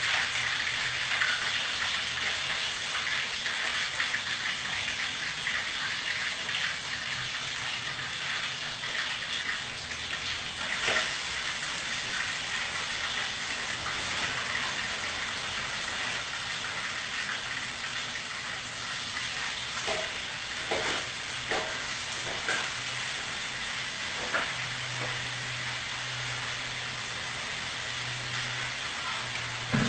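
Food frying in hot oil, a steady sizzling hiss throughout, with a few sharp clicks or knocks in the second half and a low steady hum joining in near the end.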